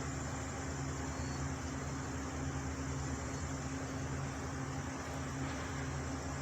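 Steady low machine hum with several constant tones over an even hiss, unchanging throughout.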